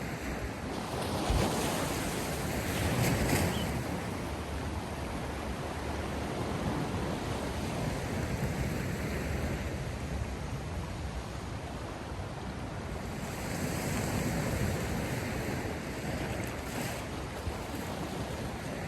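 Sea waves washing onto the shore, a steady hiss of surf that swells twice, about a second in and again around two-thirds of the way through.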